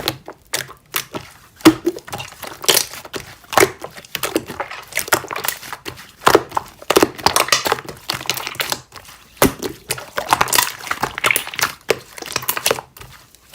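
Slime being squeezed and worked, giving an irregular run of crinkly crackles and pops.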